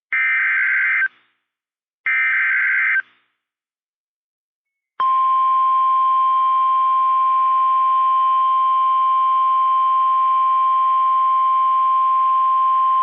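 NOAA Weather Radio alert signalling a severe thunderstorm warning. First come two one-second bursts of buzzing SAME data-header tones, about a second apart. After a two-second pause, the steady single-pitch warning alarm tone starts about five seconds in and holds.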